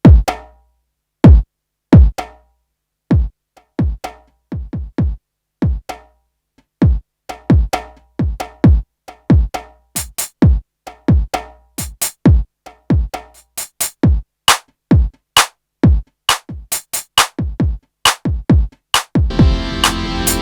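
Electronic percussion playing single sharp hits, each dropping quickly in pitch like a synth drum, in an uneven rhythm that grows busier. About nineteen seconds in, a dense sustained synthesizer sound comes in.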